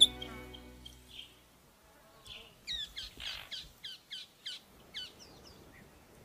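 Soft background music fades out over the first second or so; then a bird gives a run of about ten short, sharp chirps over some three seconds.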